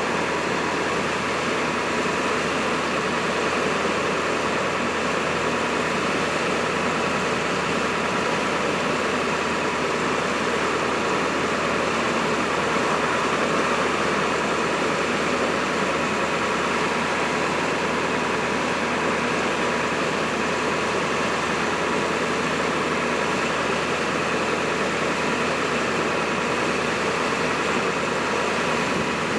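Ford F550 bucket truck's engine running steadily with the PTO engaged to drive the Elliott boom's hydraulics, with a few steady tones over the engine and no change in level.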